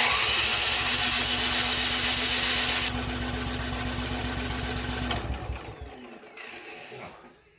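Cub Cadet 2X snowblower's 357cc PowerMore single-cylinder engine running loudly. About three seconds in it drops to a lower, steadier level, then winds down and stops about five seconds in.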